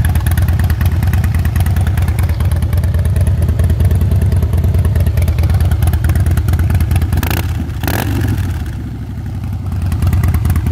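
2011 Harley-Davidson CVO Softail Convertible's Twin Cam 110B V-twin idling steadily with an even, loping pulse. Two short rushes of noise come about seven and eight seconds in, and the engine dips briefly in loudness just after before settling back.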